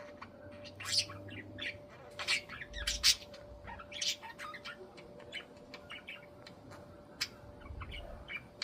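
Budgies chattering: a stream of short, irregular chirps and harsh squawks.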